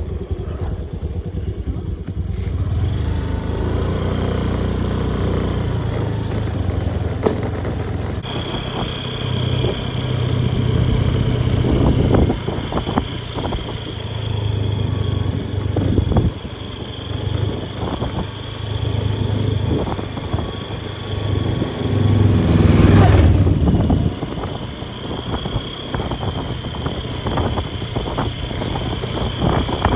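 Small motorbike engine running while riding, its note rising and falling with the throttle, over road and wind noise. About 22 seconds in, the sound swells louder for roughly two seconds.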